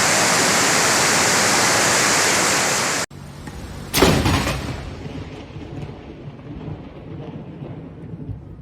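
Loud, steady rushing of floodwater pouring down a slope, which cuts off abruptly about three seconds in. About a second later comes a sudden loud crack followed by a long, fading rumble.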